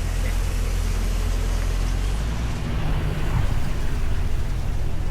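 A car engine running close by, a steady low rumble.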